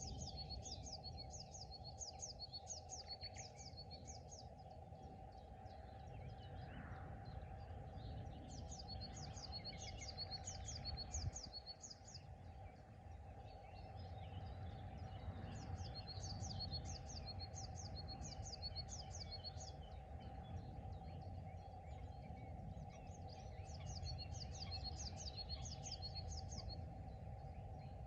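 A songbird repeating a short song of rapid high notes, four phrases each a few seconds long, about every seven to eight seconds. Underneath runs a steady low rumble and a faint constant hum.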